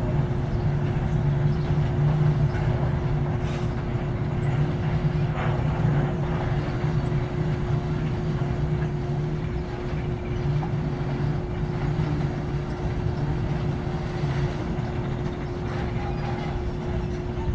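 Loaded freight train rolling past: a continuous low rumble with a steady high tone running through it, easing off slightly towards the end.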